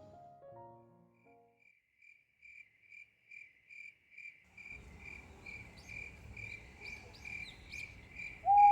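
A cricket chirping steadily, about two to three chirps a second, as piano music fades out. From about halfway, outdoor background hiss and small birds' chirps join in, and a louder single call starts right at the end.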